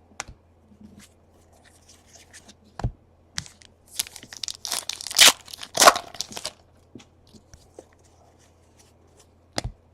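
Paper-and-plastic rustling of a trading card pack being torn open and cards handled, loudest in a run of tearing and crinkling from about four to six and a half seconds in. There are two light thumps, one before the run and one near the end.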